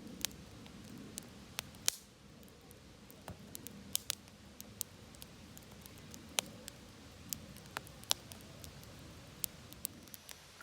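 Campfire crackling: irregular sharp pops and snaps of burning wood over a low steady rumble of the fire.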